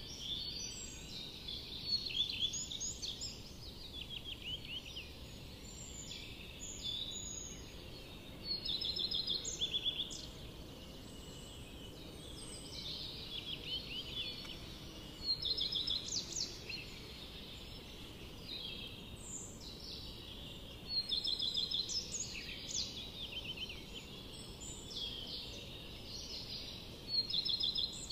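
Birds chirping, with quick trills of rapidly repeated notes in short clusters every second or two, over a faint steady hiss.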